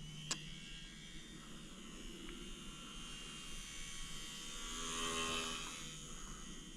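Electric motor and propeller of an E-flite UMX Slow Ultra Stick RC plane buzzing faintly in flight, growing louder about five seconds in and then fading again. A single sharp click comes about a third of a second in.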